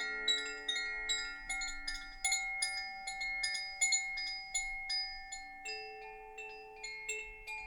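Background music of bright struck chimes: light strikes a few times a second, each note ringing on and overlapping the next, like wind chimes or glockenspiel bars.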